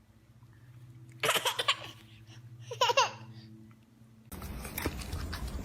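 Two short bouts of laughter about a second and a half apart, then the sound cuts to a noisier background.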